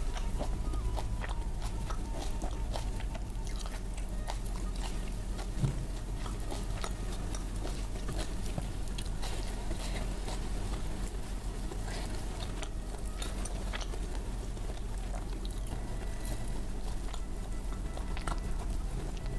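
Close-miked chewing and mouth sounds of someone eating, with many small clicks scattered throughout and one sharper click a little before the middle.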